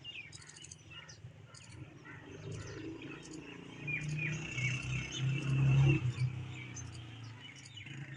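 Birds chirping and twittering repeatedly. Under them a low drone swells in the middle, loudest about six seconds in, then fades.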